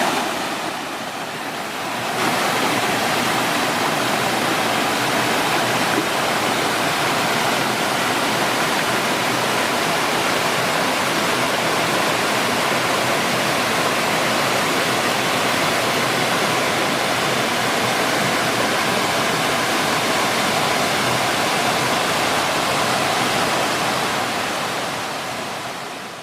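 Waterfall rushing steadily, a dense even roar of falling water. It drops briefly just after the start, then fades out at the end.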